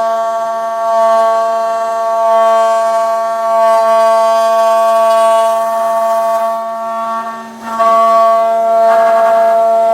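Homemade CNC router's spindle running with a steady high-pitched whine, its loudness swelling and easing every second or so, with a brief drop a little past three-quarters of the way through.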